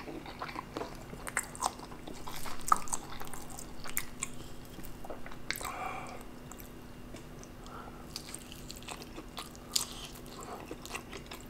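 Close-miked eating sounds: wet chewing and mouth clicks from a mouthful of saucy instant black bean noodles, then a bite into a slab of fried spam near the end.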